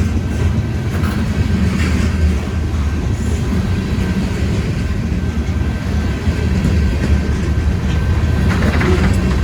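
Freight cars of a long CSX freight train rolling past with a steady low rumble, with a few wheel clicks over the rails.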